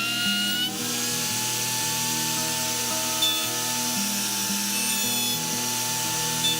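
An electric power tool cutting or shaping hardwood: a steady motor whine with a hissing, rasping cut that sets in just under a second in. Background music plays throughout.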